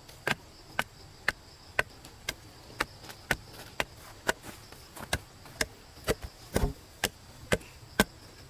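A blade chopping into wood with steady blows about twice a second, and a quick flurry of several strikes past the middle.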